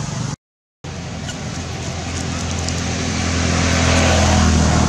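A motor vehicle's engine running and drawing closer, a steady hum growing louder toward the end, over street noise. The sound cuts out completely for about half a second near the start.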